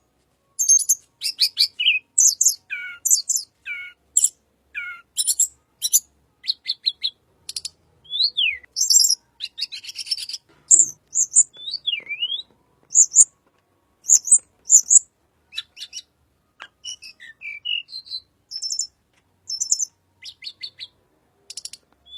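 Tledekan bird singing a varied, fast song of short chirps, rattling trills and swooping whistled notes, broken by brief pauses. This is the kind of song used as a lure call for white-rumped shamas.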